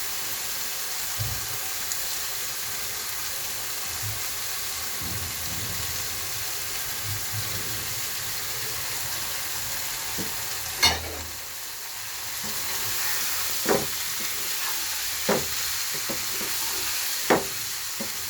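Chopped papaya, carrot and soaked mung dal sizzling steadily in a frying pan of spiced masala. A spatula knocks against the pan, once loudly about halfway through and then a few more times near the end.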